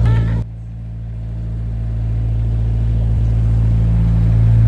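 Narrowboat engine running steadily at a low, even drone. About half a second in the sound drops sharply, then slowly swells back up to full level.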